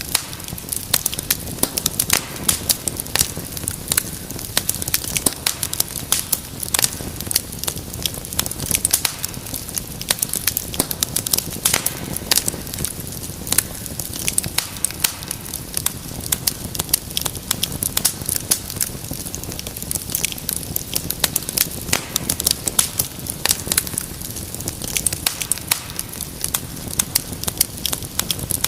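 Wood fire in a fireplace crackling steadily: many sharp irregular pops and snaps over a low steady hiss of the flames.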